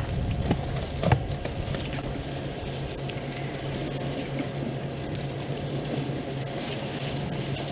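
Dry twigs and leaves crackling, with a sharp snap about a second in, over a steady low hum.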